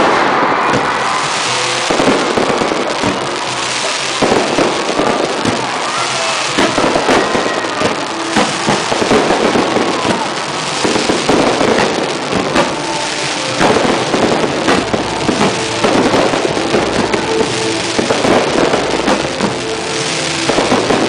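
Fireworks display heard at very close range: aerial shells bursting one after another in a dense, continuous barrage of bangs and crackle.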